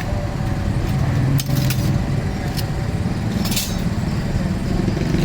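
Steady low rumble of motor traffic, with a few short, sharp metallic clinks, the strongest about three and a half seconds in.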